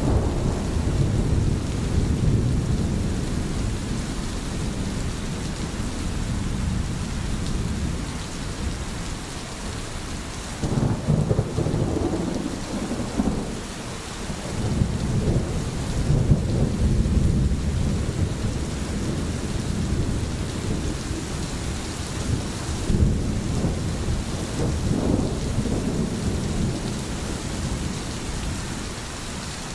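Steady heavy rain, with deep rumbles that swell and fade several times, loudest about a third of the way in and again just past the middle.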